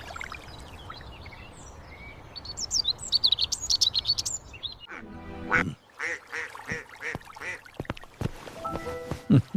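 Small birds chirping in quick high notes, then a duck quacking several times in short calls, over a soft steady outdoor hum.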